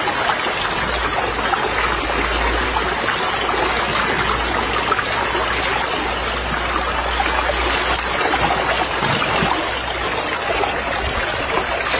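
Steady rushing of flowing water, an even noise throughout with a low rumble underneath.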